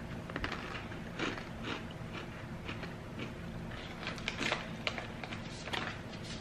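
Fried corn nuts crunching as they are chewed: many short, irregular crunches, with the crackle of a plastic snack wrapper being handled.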